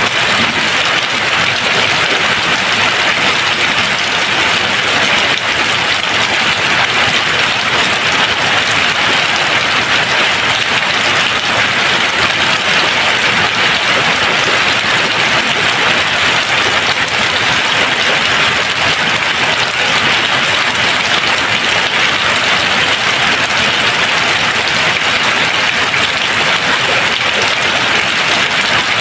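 Steady rain falling, an even hiss of many drops that does not let up or change. There is no thunder.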